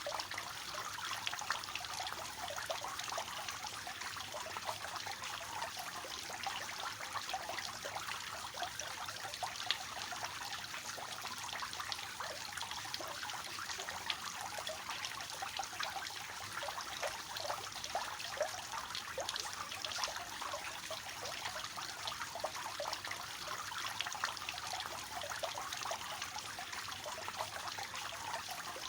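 Water from a three-tiered fountain falling and splashing steadily into the basins below, a dense, even patter of small splashes.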